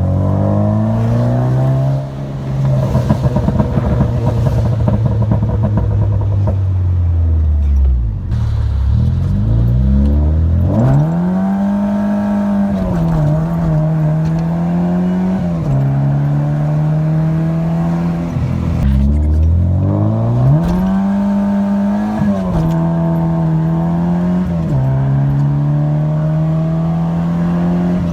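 Rebuilt, straight-piped 2-litre four-cylinder engine of a Mk1 Volkswagen Golf GTI on the road. The revs climb and hold, step down at an upshift, and twice sink low before climbing again under throttle.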